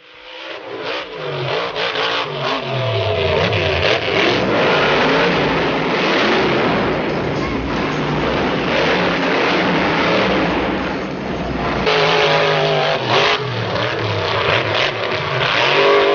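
Monster truck engine revving hard, its pitch rising and falling again and again, with a fresh burst of revving about twelve seconds in.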